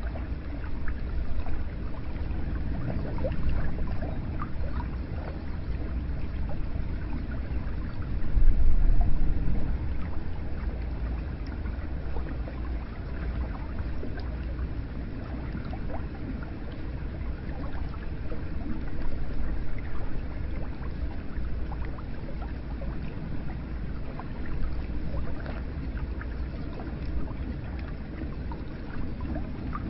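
Hot spring water flowing and pouring steadily into a bath, with a low rumble and small splashes and gurgles throughout; the flow swells louder briefly about a third of the way in.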